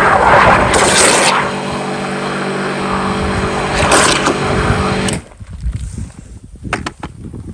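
Pressure washer running, its motor humming under the hiss of the spray, with two short surges of spray; it cuts off abruptly about five seconds in, leaving faint clicks and scrapes.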